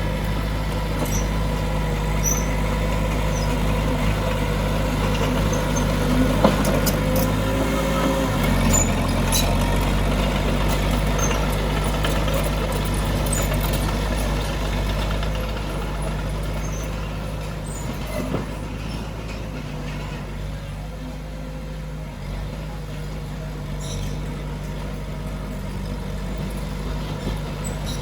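Heavy diesel engine of earthmoving machinery running steadily, its engine note dropping about eight to nine seconds in, with a few brief knocks.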